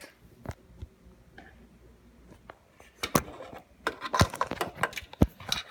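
Scattered knocks and clicks with some rustling: sparse at first, then a busy run of sharp knocks from about halfway through.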